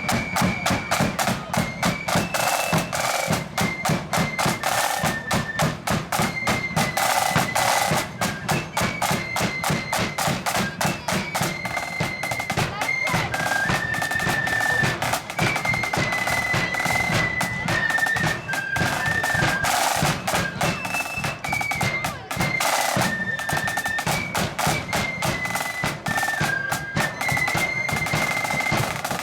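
Marching band playing a tune: a high, wind-blown melody line over rapid snare drumming and bass drum beats.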